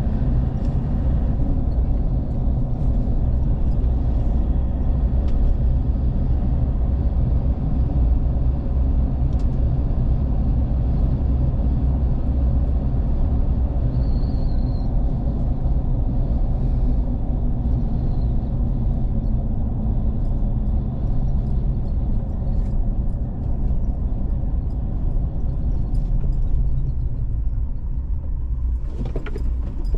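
Steady low rumble of a motor vehicle driving along a road: engine hum and road noise, with a short louder surge near the end.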